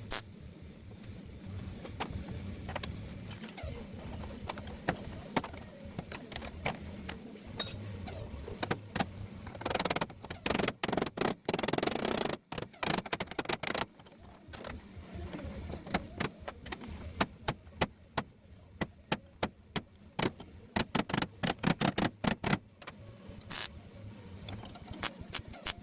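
Irregular sharp metallic clicks, taps and clinks from hand tools and clamps on sheet-metal bodywork. A denser crackling stretch comes about ten to fourteen seconds in, and quick runs of clicks follow later.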